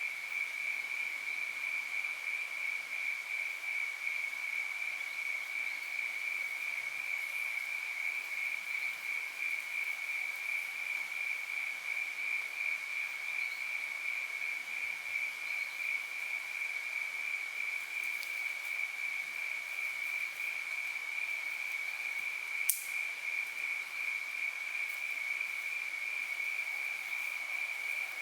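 Steady high-pitched drone of calling forest animals, one unbroken tone over a faint hiss, with a single sharp click about 23 seconds in.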